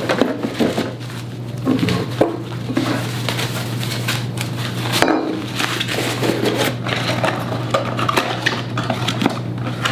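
Metal and plastic parts of a dual monitor mount kit being handled and set down: a run of irregular clinks and knocks, over a steady low hum.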